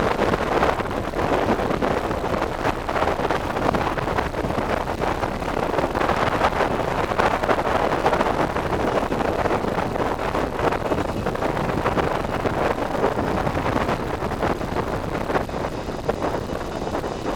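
Strong wind buffeting the microphone in gusts over the steady noise of a departing Boeing 717-200's Rolls-Royce BR715 jet engines.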